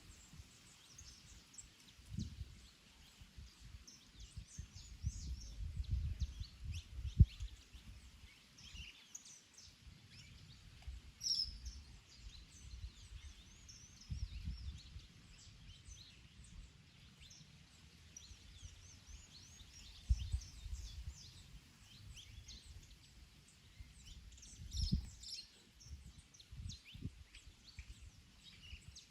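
Garden birds chirping and singing in many short, high notes, with gusts of wind rumbling on the microphone now and then.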